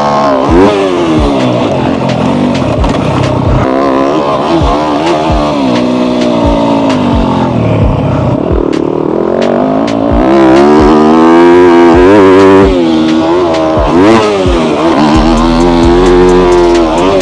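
Yamaha YZ250F's single-cylinder four-stroke engine revving up and down as the bike is ridden hard around a motocross track. The pitch climbs under throttle and drops repeatedly, loudest about ten to thirteen seconds in. The section is ridden held in second gear.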